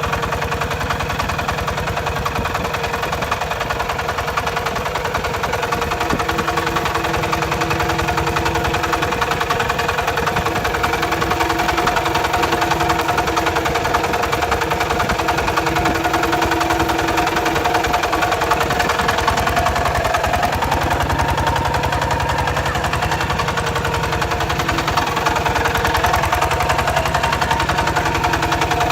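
Kubota RT140 single-cylinder diesel engine running steadily, with a rapid, even knocking beat.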